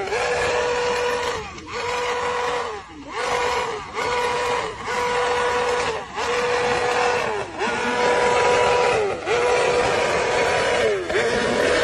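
BMW S 1000 RR inline-four with a loud exhaust revved hard and held at high revs, the throttle snapped shut about eight times so the revs dip briefly and then climb back. Each throttle cut is what makes the exhaust spit flames.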